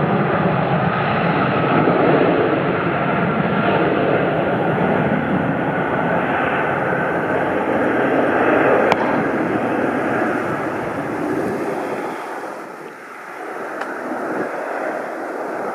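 Airliner engines running at power as the aircraft passes: a loud, steady noise with a faint whine in it that fades away about twelve seconds in. A single sharp click sounds about nine seconds in.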